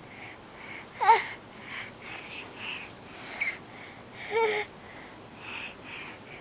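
Baby vocalizing: a high squeal about a second in and another about four and a half seconds in, with short breathy huffs and babble between.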